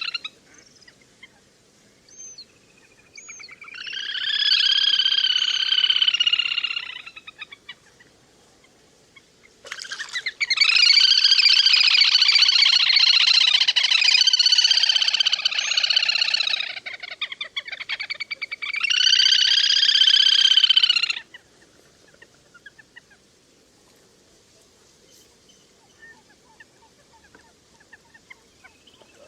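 Little grebe calling in repeated high, rapid trills. There are three main bouts, the longest lasting about seven seconds in the middle.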